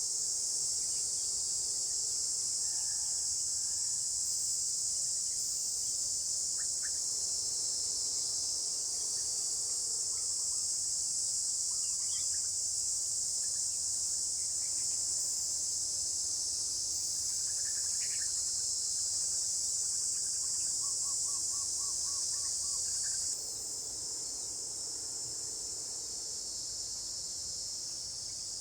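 Steady high-pitched drone of a chorus of insects, dropping slightly in level near the end, with faint scattered bird calls and a short rapid trill about three quarters of the way through.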